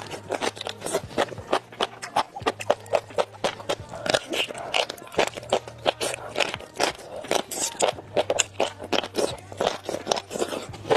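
Close-miked eating: a mouth biting and chewing food, with crisp wet clicks and crunches coming several times a second.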